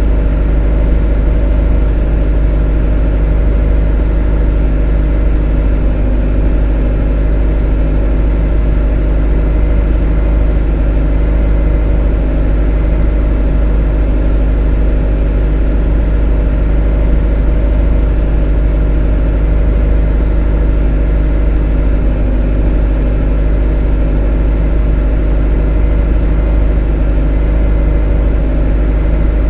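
A motor running at a steady, unchanging speed: a loud, deep, even drone with a constant hum.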